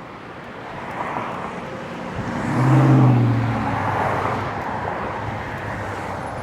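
A motor vehicle passes by. Its engine hum swells to a peak about three seconds in and then fades, over steady outdoor traffic noise.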